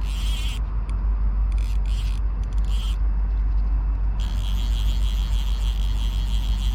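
Steady low rumble and hiss of flowing river water around the wading angler.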